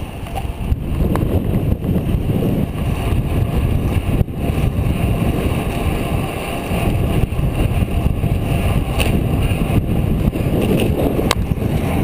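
Wind rushing over a bicycle-mounted camera's microphone while riding in a road race, a loud, steady low rumble.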